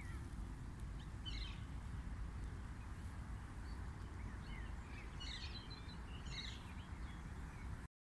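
Outdoor birds chirping in a few short bursts over a steady low rumble of outdoor background noise.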